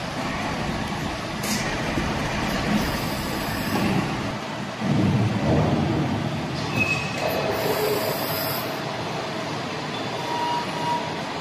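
130-ton CNC press brake running on a test cycle: a steady mechanical machine noise, with short hissing bursts about a second and a half in and again from about seven to nine seconds.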